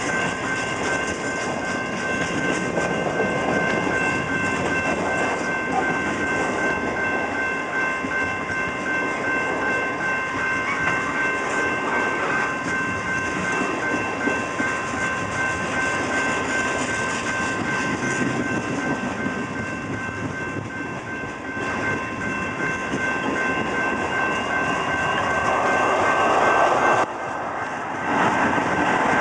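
Canadian National freight train's tank cars and flatcars rolling slowly past: a steady rumble of steel wheels on the rails with clatter over the joints, and a steady high-pitched ring over it. The sound dips sharply for about a second near the end.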